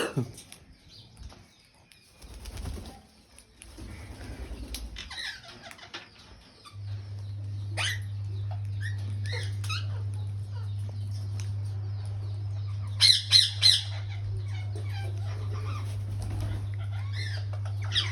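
Parakeets giving short harsh squawking calls now and then, loudest in a quick run of three about 13 seconds in. A steady low hum starts about 7 seconds in.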